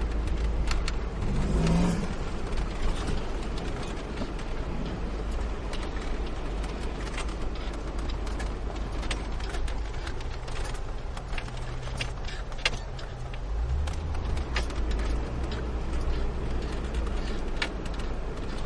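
A car driving on a snowy road, heard inside the car: a steady low engine and road rumble with scattered clicks and knocks.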